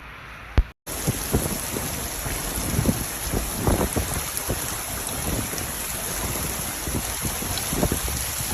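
Steady rainfall, with heavy drops striking a surface close by at irregular moments. A click and a brief gap come right at the start.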